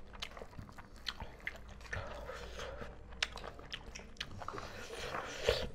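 Chewing of mouthfuls of rice and pork curry with soibum (fermented bamboo shoot), with scattered short wet clicks as fingers mix rice on banana leaves.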